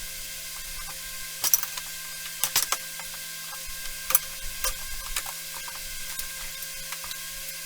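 Irregular sharp clicks and clacks of small mechanical work, some in quick pairs, over a steady hum.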